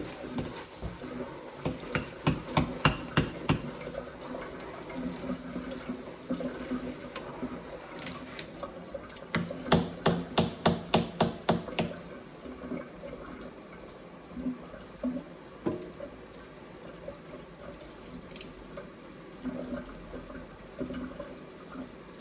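Water running steadily from a tap as a Moluccan cockatoo bathes under it. Two runs of quick sharp knocks or splashes, about four a second, come a couple of seconds in and again around the middle.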